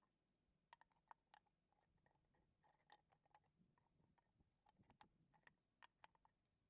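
Near silence with faint, irregular small clicks and taps scattered through it, like small parts or hand tools being handled.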